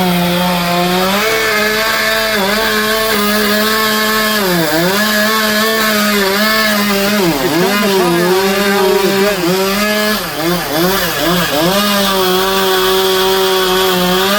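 Two-stroke chainsaw running at high revs and cutting wood. Its pitch dips as the chain bogs down in the cut, once about five seconds in, again about seven seconds in, and repeatedly over the next few seconds, before it picks back up.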